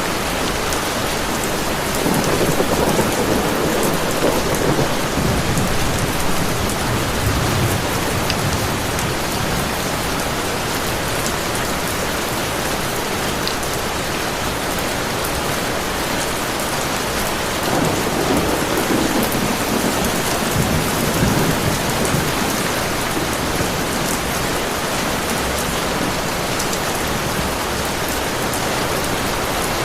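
Heavy rain falling steadily, with two low rolls of thunder: one rumbling for several seconds starting about two seconds in, another starting just past the middle.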